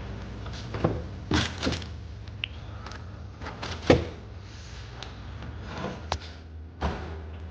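Scattered short knocks and thuds, six or so, the loudest about four seconds in, over a steady low hum.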